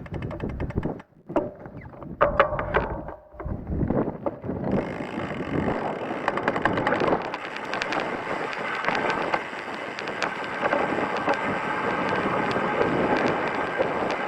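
Mountain bike riding down a rocky, loose trail: tyres crunching over stones and the bike rattling and clattering, with wind on the microphone. Broken up for the first few seconds, then a dense, continuous clatter from about five seconds in.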